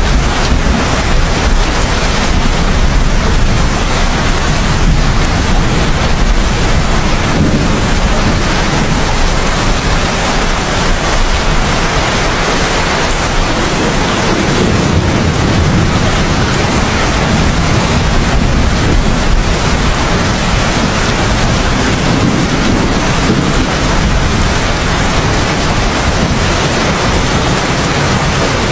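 Heavy, steady rainfall with a low rumble of thunder rolling underneath, swelling and fading several times without any sharp crack.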